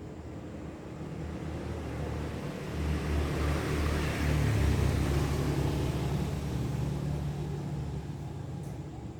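A motor vehicle passing by: a low rumble with road noise that swells to a peak about halfway through, then fades away.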